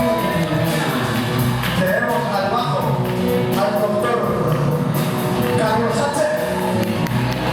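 A live band playing, with a singer's voice over steady percussion hits.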